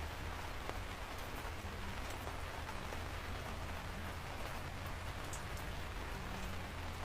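Steady rain falling, with scattered individual drops ticking and a low, even rumble underneath.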